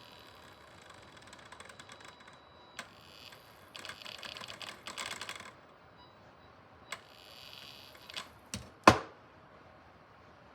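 Snap Circuits kit circuit giving off a faint, steady high-pitched whine that stops about three seconds in. Buzzy, rattling bursts and light clicks follow, with one sharp click near the end.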